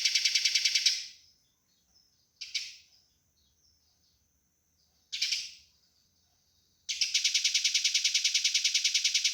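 Eurasian tree sparrow fighting chatter: a fast, even run of harsh chirps, about seven a second, that stops about a second in. Two single calls follow a few seconds apart, then the rapid chatter starts again near the end.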